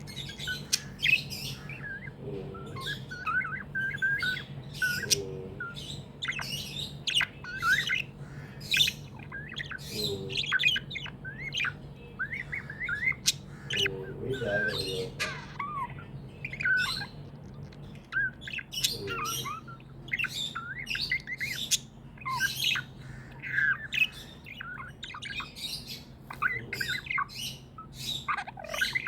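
Budgerigars chirping and warbling continuously, with many quick overlapping calls and an occasional harsher squawk.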